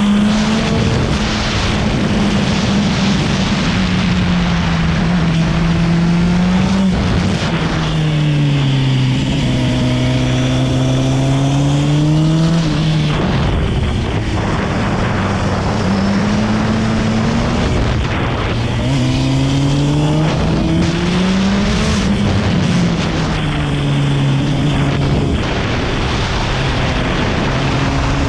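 A motorcycle engine ridden hard around a tight track, its pitch climbing as it accelerates and dropping as it slows for the corners, over and over, with a steady rushing noise underneath.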